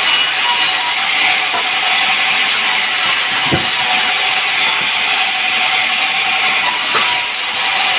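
Sawmill saw cutting through a sengon log, a loud, steady hissing rasp, with two brief knocks about three and a half and seven seconds in.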